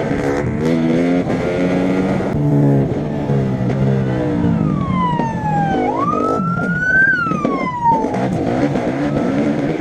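An engine revs hard, its pitch climbing and dropping several times as it changes gear. About halfway through, a police siren wails: it falls, rises again and falls.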